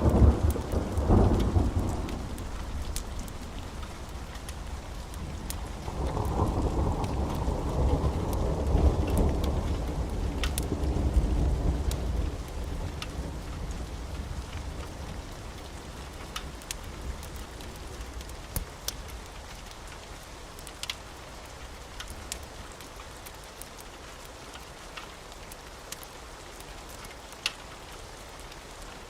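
Steady rain with thunder rolling twice: a short rumble at the start and a longer one from about 6 to 12 seconds in that dies away, leaving only the rain. Scattered sharp crackles of a fireplace run through it.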